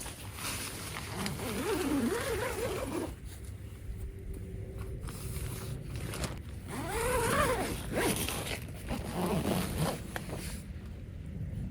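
A zipper being pulled, in three long scratchy runs with a pitch that rises and falls along each pull.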